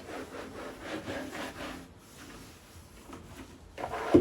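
Cloth wiping and rubbing the surfaces of a switched-off fridge in short repeated strokes, quieter about two seconds in, with a louder knock right at the end.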